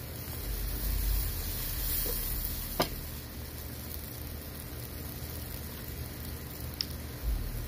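Stir-fried noodles sizzling in a hot pan as sauce is poured in and stirred with a metal ladle, the sizzle loudest in the first couple of seconds. A sharp knock about three seconds in and a fainter one near the end.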